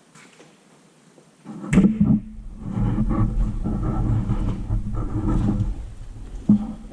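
Detroit 3-53 three-cylinder two-stroke diesel starting about a second and a half in, running steadily for several seconds, then shut down near the end with a sharp knock as it dies away.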